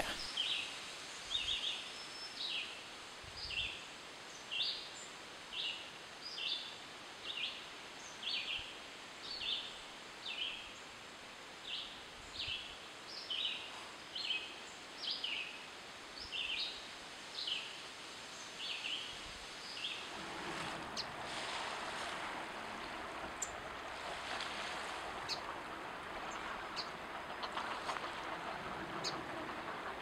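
A bird repeats one short, high call about twice a second for some twenty seconds. Then the calls stop and a steady soft rushing wash takes over, with a few faint ticks.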